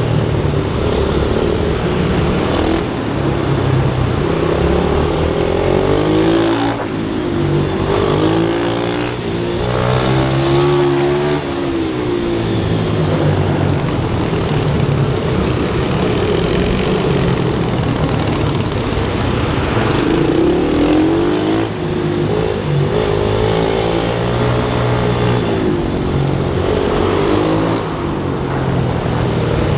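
Pit bike's small single-cylinder engine at racing speed, revving up and dropping back again and again as it goes through the gears and brakes for corners.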